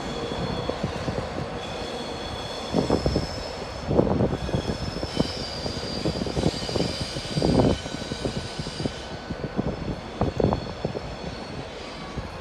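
A train moving through the station: steady rumble of the running gear with a few heavy irregular knocks and thin high-pitched wheel squeal tones.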